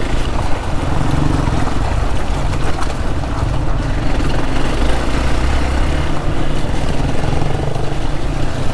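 Hero XPulse 200 motorcycle's single-cylinder engine running at a steady pace while riding, with a constant rush of wind and road noise over it.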